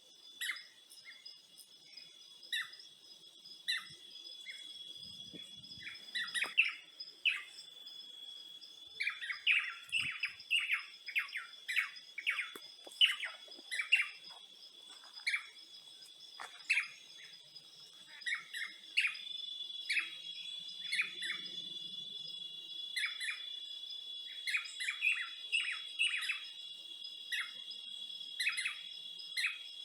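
Forest ambience: many small birds giving short, sharp chirps, sometimes in quick clusters, over a steady high-pitched insect drone. A second insect tone joins the drone about two-thirds of the way through.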